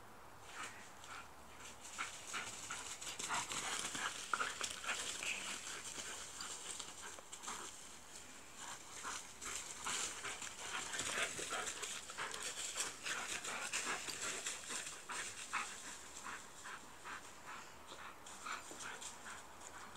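Dog panting, with an irregular run of scratchy clicks and rustles.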